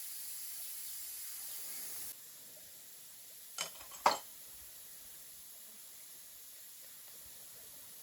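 Steady sizzling hiss of cooking that cuts off abruptly about two seconds in. Then two sharp clinks of a metal utensil or dish about half a second apart, the second the louder.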